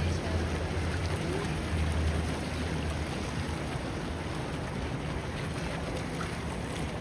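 Outdoor ambience: a steady even hiss with a low rumble under it that eases after about three seconds.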